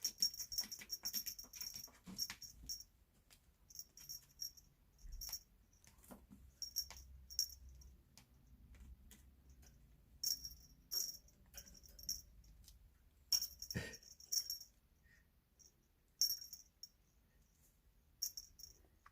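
A small jingle bell tinkling in short clusters of rapid jingles, with quiet gaps between them, and a single soft knock a little after the middle.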